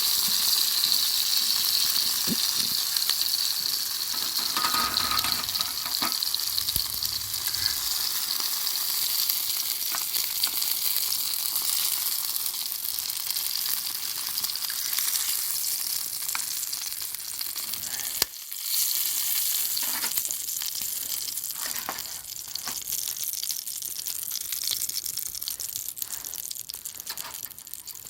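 Food sizzling in a frying pan over a fire pit: a steady hiss that gradually dies down, cutting out for a moment about two-thirds of the way through, with a few light clicks scattered through it.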